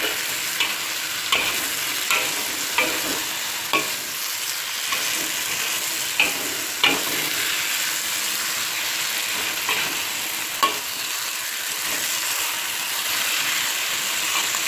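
Sambal with grilled eggplant and eggs frying in a wok, a steady sizzle, while a metal spatula stirs it. The spatula knocks and scrapes against the wok every second or so, less often in the second half.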